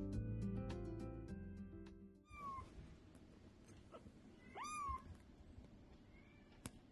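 Background music fades out and stops about two seconds in. A kitten then meows three times: a short call, a louder, longer one about four and a half seconds in, and a faint one near the end. A single sharp click comes just before the end.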